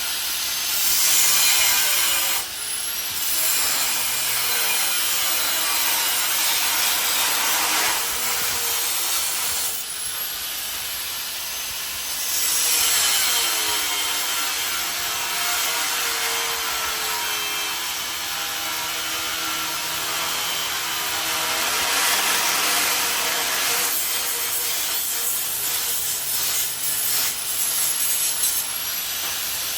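Steel being worked with a power tool on a barbecue smoker's box: continuous rasping, hissing cutting or grinding noise that swells louder several times.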